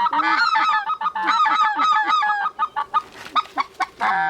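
Goose calls blown in rapid, overlapping runs of honks and clucks, loud and close; after about three seconds they break up into separate short clucks.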